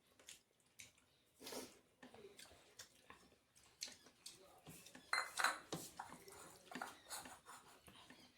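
Dishes clinking and scraping during a meal: scattered light knocks on plates and bowls, with a louder run of clinks about five seconds in.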